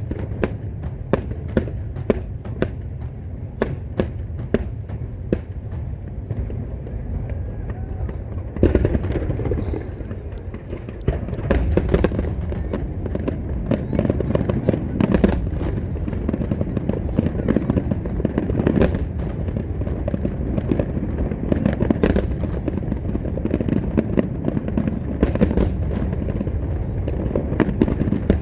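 Large fireworks display: a quick, regular string of sharp bangs, then about nine seconds in a dense barrage of many bangs over a continuous low rumble.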